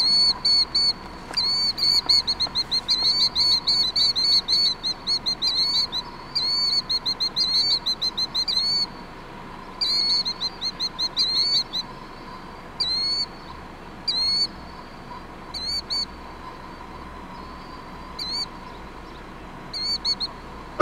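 Killdeer calling: rapid runs of high, shrill notes for about the first twelve seconds, then single calls spaced out.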